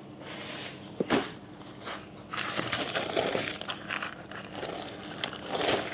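Tent being handled during setup: rustling and crinkling of fabric and gear, with one sharp knock about a second in.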